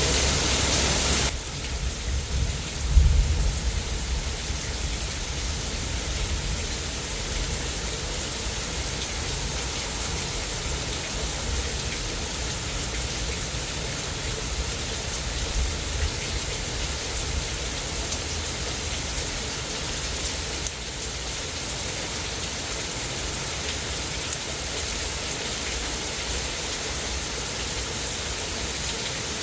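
Steady heavy rain falling during a thunderstorm, its hiss dropping suddenly about a second in. A low rumble of thunder swells about three seconds in, and a fainter one comes around the middle.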